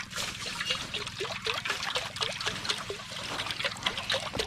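Water poured from a bottle into a cooking pot, trickling and gurgling in a quick run of small bubbly gulps.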